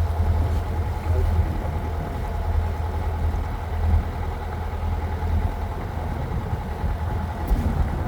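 Narrowboat engine running steadily, a continuous low drone.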